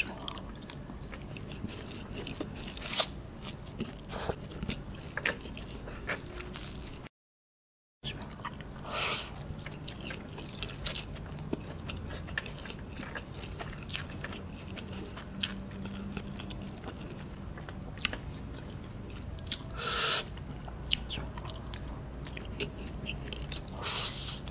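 A person chewing instant noodles close to the microphone, with scattered wet mouth clicks and smacks and a few louder eating noises. The sound drops out completely for about a second around seven seconds in.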